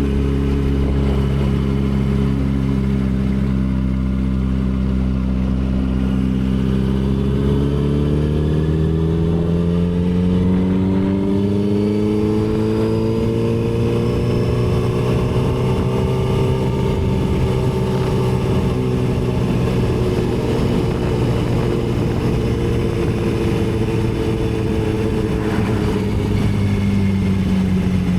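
Yamaha R6 sport bike's inline-four engine running under way: its note holds steady, climbs gradually for several seconds about a third of the way in, then slowly eases back down.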